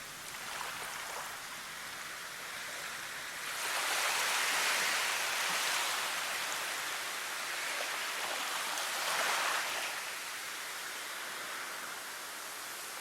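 Rushing water, a steady hiss that swells louder about three seconds in and eases off again near ten seconds.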